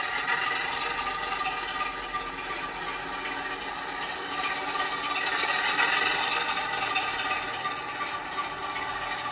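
O gauge Dapol class 08 model shunter running along the track: a steady mechanical whirr and rattle from its motor, gears and wheels.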